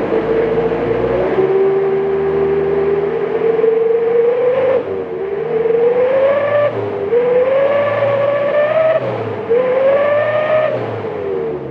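Car exhaust fitted with a 'serigala' (wolf) muffler, giving a loud whistling howl over the engine note. The howl holds steady, then rises in pitch and drops back three times as the engine is revved, falling away near the end.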